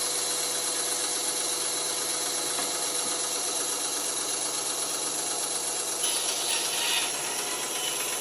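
Band saw running steadily on a test run of a freshly fitted blade, with a brief change in its sound about six seconds in.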